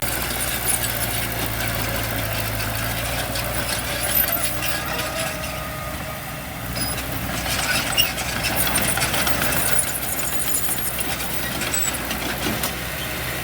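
Heavy diesel earthmoving machinery running steadily, with a low engine drone under rough mechanical noise and a few scattered knocks.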